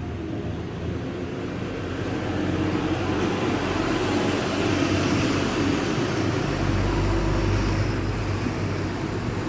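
Suzuki Futura injection's four-cylinder engine running through a freshly fitted HKS Titan racing muffler with monel-wrapped pipe, a steady exhaust note that swells in loudness through the middle, with a deeper low rumble growing about two-thirds of the way through.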